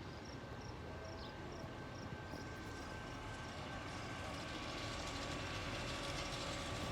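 A train approaching: a steady rumble and rail noise that grows gradually louder, with faint high dings repeating about twice a second in the first half.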